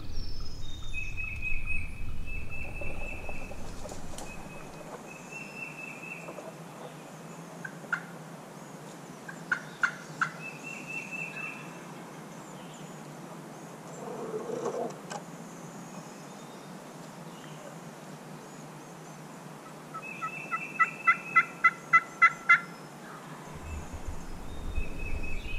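Wild turkey calling: scattered notes, then near the end a run of about eight evenly spaced yelps, the loudest sound here.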